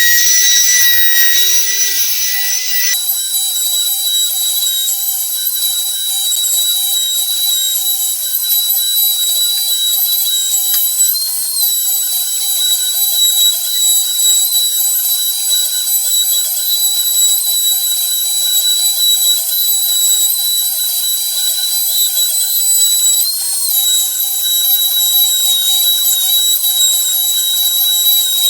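Homemade CNC machine running a puzzle-cutting job: a loud, steady high-pitched whine. The sound changes about three seconds in, and the pitch rises briefly twice, about eleven seconds apart.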